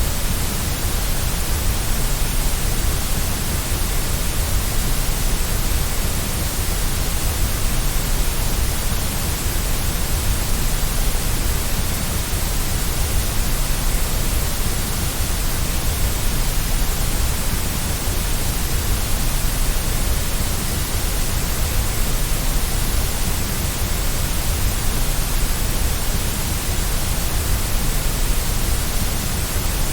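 Steady generated white noise played as a baby sleep aid: a constant, unchanging hiss with a deep rumble underneath and a slightly thinner middle.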